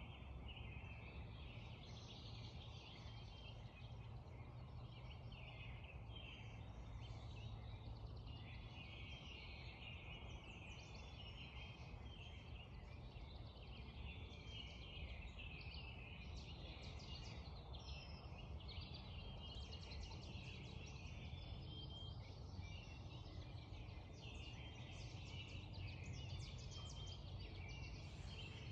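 Spring dawn chorus: many birds calling and singing at once, densely overlapping, over a steady low rush of creek water.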